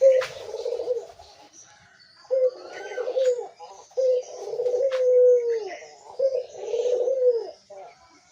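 Dove cooing: four rolling coos in a row, each one to two seconds long and falling in pitch at its end, the third the longest. Faint high chirps and a couple of sharp clicks sound in the background.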